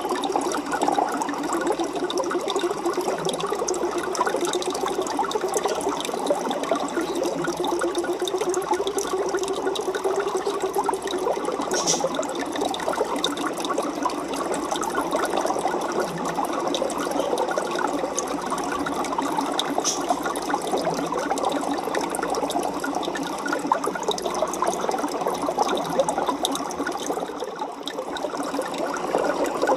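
Aquarium water bubbling and trickling steadily, a dense continuous splash with many fine pops.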